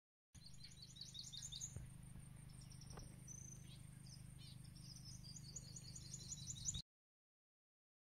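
Small birds chirping in rapid runs of short, high repeated notes, once early and again in the second half, over a low steady hum; the sound cuts off suddenly.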